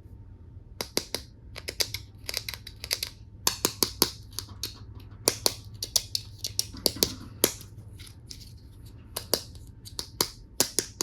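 Hard plastic toy tool pieces being handled, clicking and tapping against each other in irregular clusters of sharp clicks.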